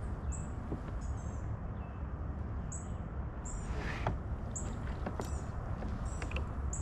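Small birds chirping: short, high chirps repeating every half second to a second. They sit over a steady low rumble, with a couple of brief knocks.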